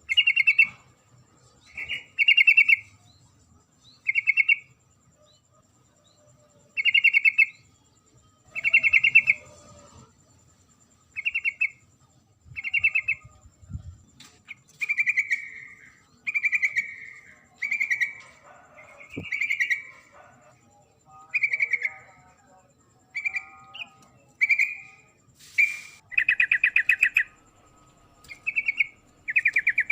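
Yellow-vented bulbul (trucuk) giving a female's call to a male: short bubbly chattering phrases repeated every second or two. It is the kind of call used as a lure to set silent males singing.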